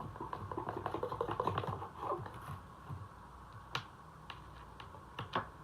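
Baking soda and vinegar fizzing in a toy volcano, a dense crackle of popping bubbles that thins out after about two seconds, followed by a few separate sharp clicks.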